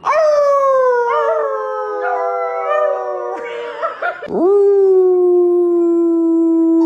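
A dog howling in two long drawn-out howls: the first slides slowly down in pitch, and the second, starting about four seconds in, swoops up and then holds a steady pitch.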